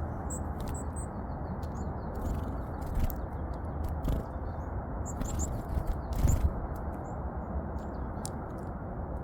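Coal tits and varied tits giving short, very high chirps, a few at a time in scattered bursts, over a steady low rumble. Soft clicks and taps come in between, and a louder low thud comes just past the middle.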